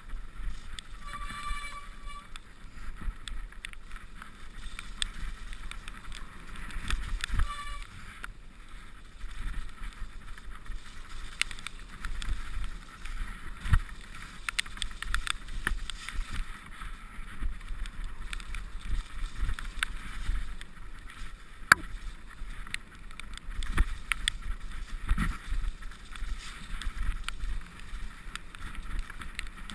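Mountain bike ridden down a wet, muddy enduro trail: a steady rattle with many sharp clicks and knocks from the bike over rough ground, over a low rumble of wind on the microphone. Two short squeals, near the start and about seven seconds in.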